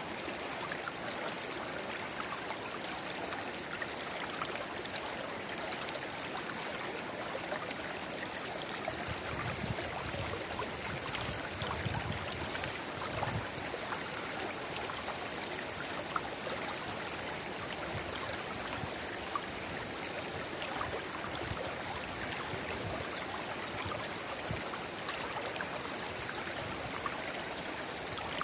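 Shallow river water babbling and trickling steadily where a narrow spring-fed stream runs into the main current, with a few deeper gurgles around the middle.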